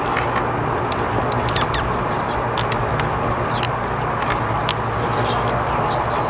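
Small birds chirping: many short, high chirps and calls scattered over a steady low rumble of background noise.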